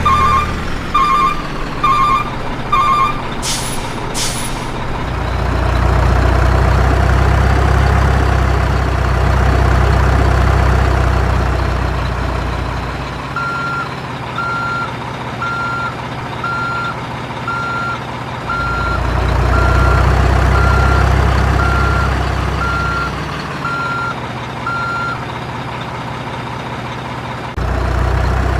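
Heavy truck sounds: a reversing alarm beeping, two short air-brake hisses, then a deep diesel engine rumble that swells twice, with a second run of reversing beeps about once a second in between.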